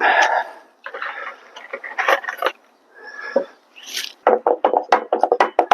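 Clattering and scraping of tools and building materials being handled, ending in a quick, irregular run of sharp clicks.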